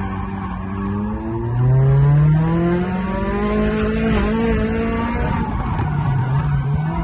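Nissan SR20 four-cylinder engine in a drifting car, held at high revs: its pitch climbs steadily for about three seconds, falls away about five seconds in, then rises and dips again. Tyres squeal under the slide.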